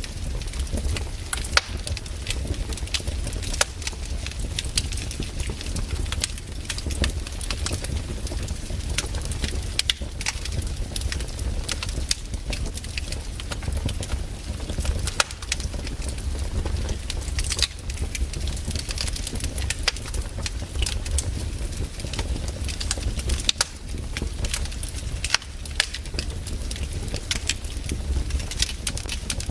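Campfire burning: wood crackling with frequent sharp snaps and pops at irregular intervals over a low, steady rumble of the flames.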